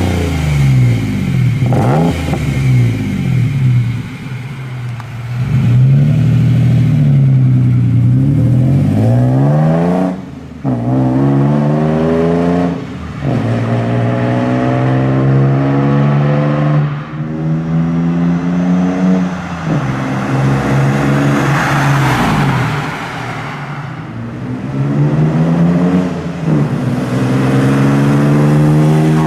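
Holden Jackaroo engine through a full aftermarket exhaust (Redback extractors, high-flow cat, 2.5 inch pipe, high-flow muffler), revving up and down over and over with a deep, loud note. There are short breaks in the sound about ten and thirteen seconds in.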